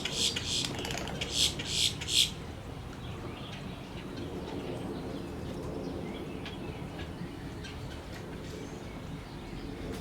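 Birds calling in a wood stork nesting colony: a rapid run of harsh, raspy calls, about three or four a second, that stops about two seconds in. Fainter scattered calls follow over a steady low background.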